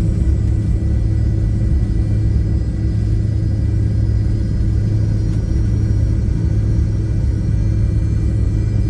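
Steady cabin noise of an airliner: a constant low rumble of engines and airflow with a strong low hum and faint steady whines above it.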